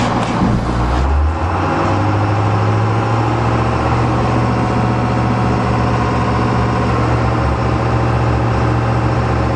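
1996 International school bus's 7.3-litre V8 diesel running steadily under load in forward gear, trying to pull the bus out of snow drifts that it is stuck fast in.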